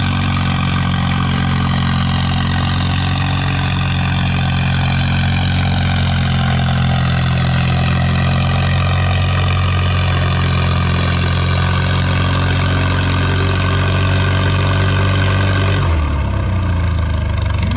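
Antique farm tractor engine running steadily, its pitch sagging slowly as it pulls. About sixteen seconds in, the note drops abruptly to a lower pitch.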